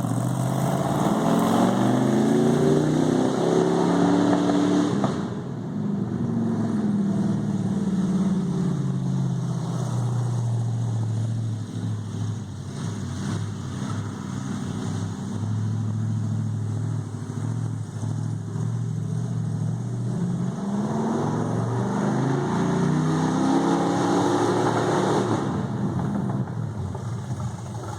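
Car engine revving up as it accelerates for the first few seconds, then falling off about five seconds in and running along steadily. It accelerates again from about twenty seconds in and eases off near the end.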